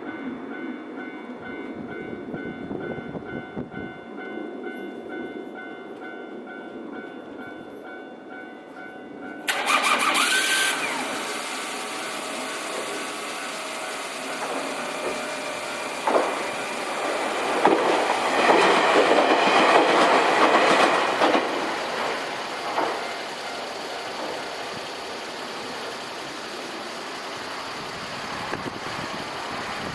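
A Nankai electric train running past a level crossing, with the crossing's warning bell sounding steadily at first. About ten seconds in the sound turns abruptly louder and fuller. The wheel and rail noise is heaviest, with a few clanks, a little past the middle, then settles to a steady rumble.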